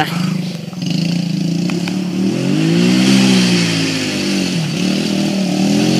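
Small off-road engine running and revving: its pitch climbs to a peak about three seconds in, drops back, then climbs again near the end.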